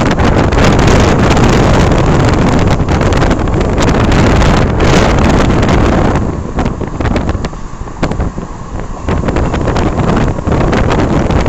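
Loud wind buffeting the microphone over the rumble of a moving vehicle, easing for a few seconds past the middle before picking up again.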